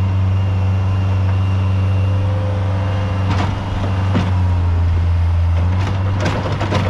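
A heavy-equipment engine running steadily under a low hum, with scattered knocks and scrapes starting about three seconds in and coming thicker near the end.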